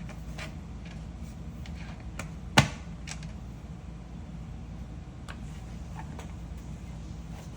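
Plastic Lego bricks being handled and pressed together: scattered light clicks, with one sharp snap about two and a half seconds in, over a steady low hum.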